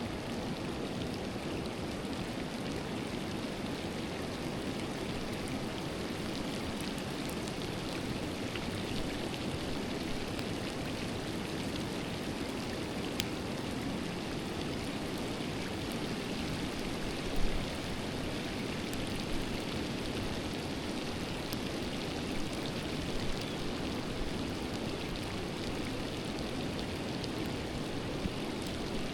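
Forest river flowing, a steady even rush of water. A single soft low thump sounds a little past halfway.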